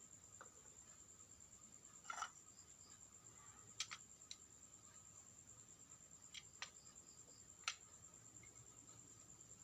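Near silence with a steady, high-pitched trill like a cricket's. Several faint, sharp clicks and one short scrape sound over it, like small parts being handled.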